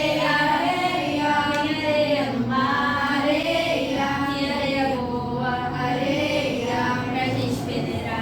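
A group singing a song together, children's and a woman's voices, with no breaks.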